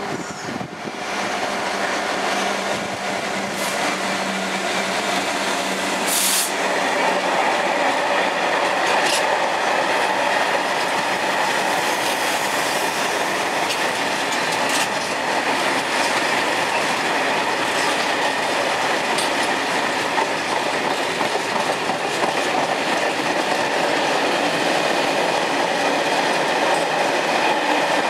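Heavy freight train of a Class 66 diesel hauling loaded stone wagons rolling past on steel rails: a steady, dense rumble that grows louder over the first several seconds, with occasional sharp clicks from the wheels.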